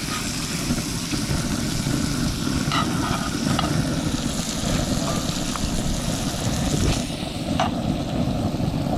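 Redfish fillets sizzling in butter and oil in a hot cast iron skillet, the sizzle thinning out about seven seconds in. A steady low rumble runs underneath, and a few light clicks of a utensil can be heard.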